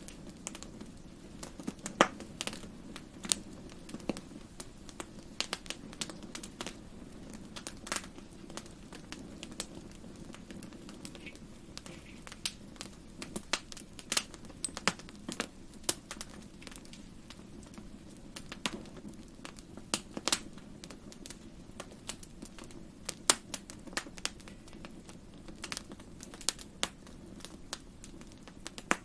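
Wood campfire burning: irregular sharp crackles and pops, some single and some in quick clusters, over a steady low rush. The loudest pop comes about two seconds in.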